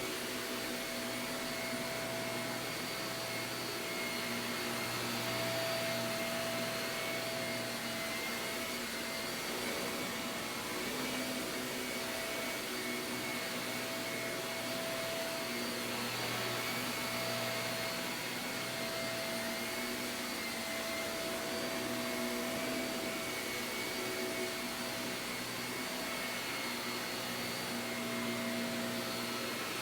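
Shark vacuum cleaner running steadily, its motor whine holding a constant pitch and swelling and easing slightly in loudness.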